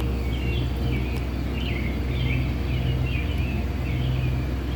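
A machine running with a steady low hum, which sounds like a truck engine left running, under a bird chirping over and over in short calls.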